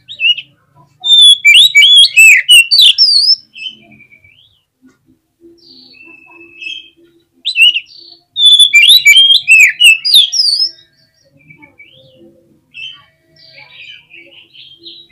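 Oriental magpie-robin singing: two loud runs of rapid, varied whistled notes, about a second in and again around eight and a half seconds, each lasting two to three seconds, with quieter scattered notes between and after.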